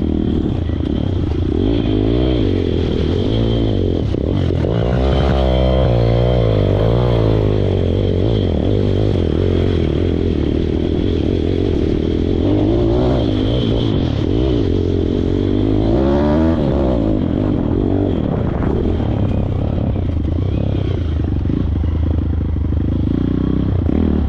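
Pit bike's small single-cylinder engine running under load, its revs rising and falling again and again, with some clattering.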